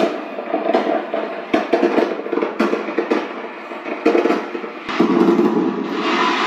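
A fireworks recording played back: irregular sharp bangs and cracks over a steady crackle, growing denser about five seconds in.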